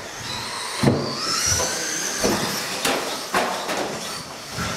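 Radio-controlled race trucks running on the track: motor whines rising in pitch as they accelerate, with half a dozen sharp knocks spread through.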